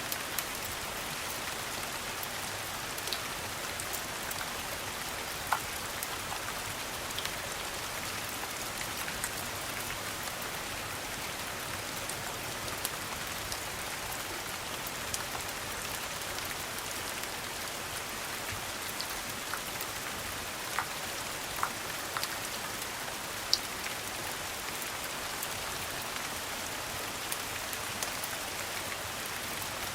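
Steady rain, an even hiss, with a scattering of sharp clicks and pops through it.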